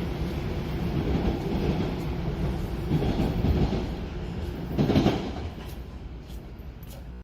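TTC subway train running on the rails, wheels rumbling and clacking over the track, with a louder swell about five seconds in before the sound grows fainter.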